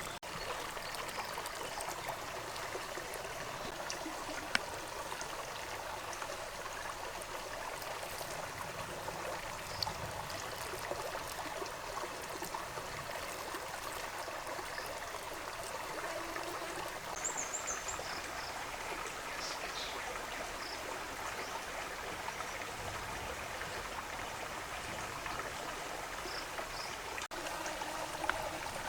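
Steady rushing of running water, with a few faint ticks and a brief high chirp about two-thirds of the way through.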